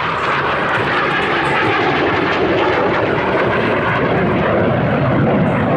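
Eurofighter Typhoon's two EJ200 turbofan engines, heard as loud, steady jet noise.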